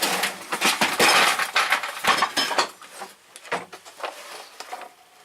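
Metal hand tools clinking and clattering in a tool box drawer as they are handled, densest over the first three seconds and thinning to a few scattered clicks.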